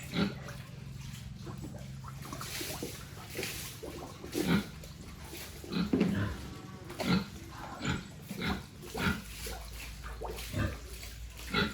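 Pigs grunting: a string of about a dozen short, irregular grunts over a steady low hum.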